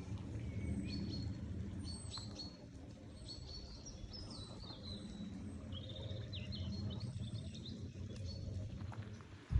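Birds chirping and singing, with many short high notes and quick glides throughout, over a steady low rumble.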